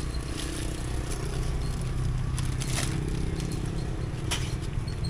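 A motor vehicle's engine running steadily, with a couple of sharp clicks about three and four seconds in.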